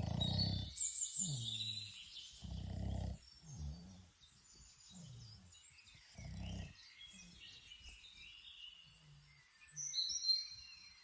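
Boston Terrier snoring in short rhythmic snorts, about one a second, fading out after about seven seconds. Birds chirp in the background, loudest near the end.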